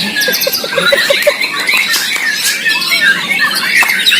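Several white-rumped shamas (murai batu) singing at once in a songbird contest, a dense tangle of overlapping whistles, glides and trills. Near the start a quick run of about seven short, lower notes cuts in.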